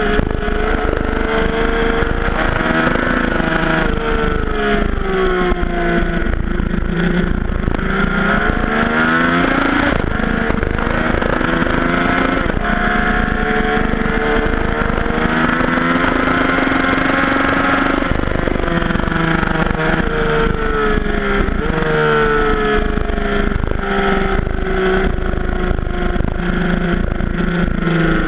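Yamaha FJ-09's 847 cc three-cylinder engine under hard riding, its pitch climbing and dropping again and again as the bike accelerates, shifts and slows for corners.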